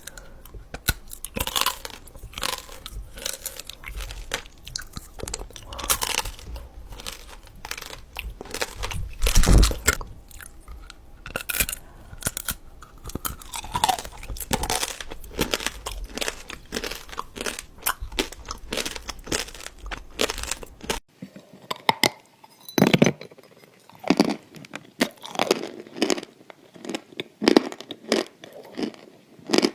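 Close-miked crunchy food being bitten and chewed in ASMR style: a run of loud, irregular crunches. About two-thirds of the way in, the background hum drops away and the crunches come more spaced out.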